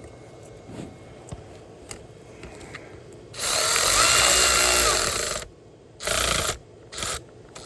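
Power tool driving a bolt in: one run of about two seconds, then two short bursts as the bolt is snugged tight.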